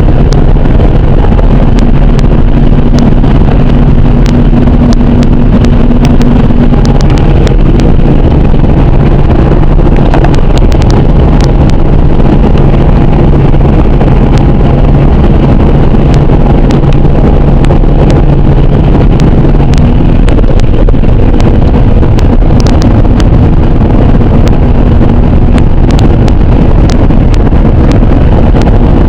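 Farm machinery engine running steadily and very loud, with wind buffeting the microphone. A steady engine hum fades out about twenty seconds in.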